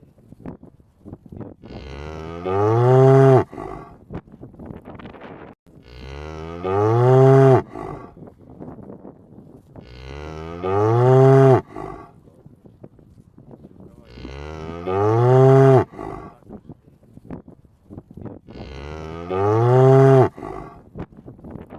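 Cow mooing: the same long moo, rising in pitch and then held, repeats about every four seconds, five times over, with a faint crackle in the gaps.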